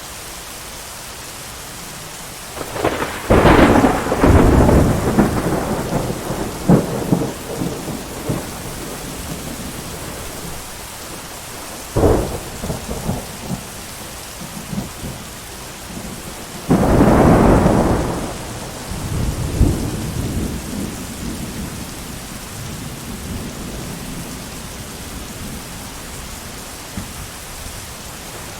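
Steady heavy rain with three peals of thunder. A loud clap about three seconds in rumbles on for several seconds, a short sharp crack follows near the middle, and another loud clap a little later rolls away.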